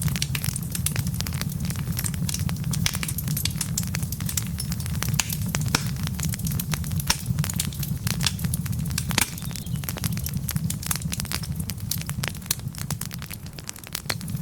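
Wood fire crackling, with frequent sharp pops from the burning logs over a steady low rumble.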